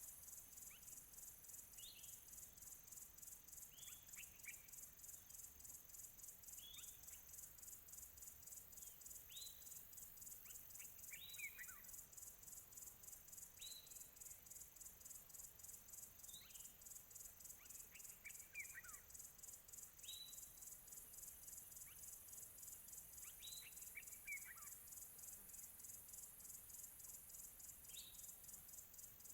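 A steady, fast, high-pitched insect trill throughout, with a bird repeating a short call about every two seconds, each call sliding down in pitch.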